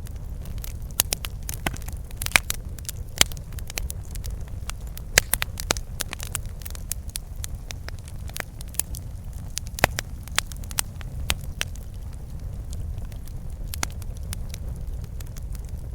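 Campfire burning, wood crackling and popping in irregular sharp snaps over a steady low rumble of the flames; the pops come thicker in the first ten seconds or so, then thin out.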